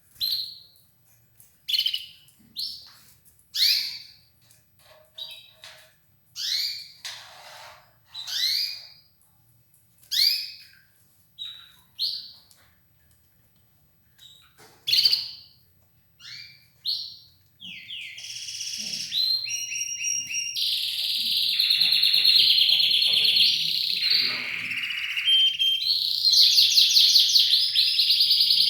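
Red ivory canary giving single chirping calls about a second apart, then, a little past halfway, breaking into continuous song with rapid trills.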